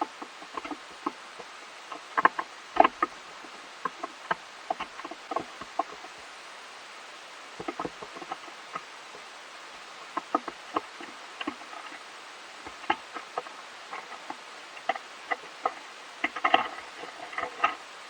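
A squirrel eating: irregular small cracks and crunches of gnawing, coming in scattered clusters over a steady hiss.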